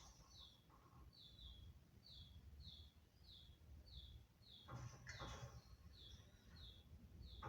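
Faint bird chirping in an even series, about two short, slightly falling chirps a second, with a louder, harsher burst of calling about five seconds in.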